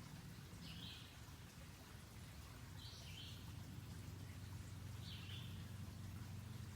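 A bird calling three times, a short high call about every two seconds, over a faint low steady rumble.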